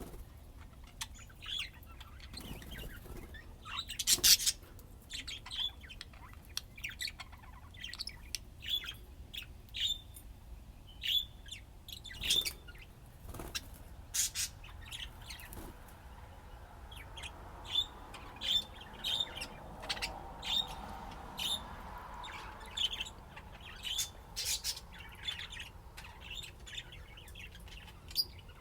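Budgerigars chirping and chattering: many short, sharp chirps with an occasional louder squawk.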